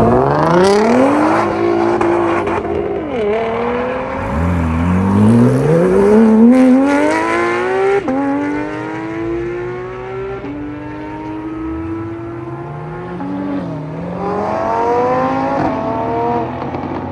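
Car engine accelerating hard through the gears. Its pitch climbs, drops back at each shift, and climbs again, with the loudest pulls in the first seven seconds.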